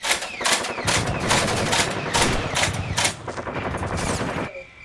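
Rapid gunfire, many shots in quick overlapping succession like automatic weapons, cutting in suddenly and stopping about four and a half seconds in.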